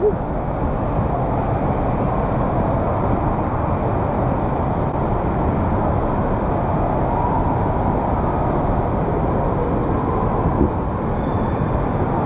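Steady rushing water noise of an indoor waterpark, with faint distant voices.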